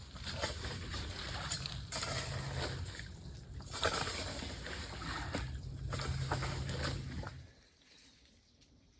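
Stream water flowing and splashing, with a low rumble underneath and scattered splashes, cutting off suddenly about seven and a half seconds in.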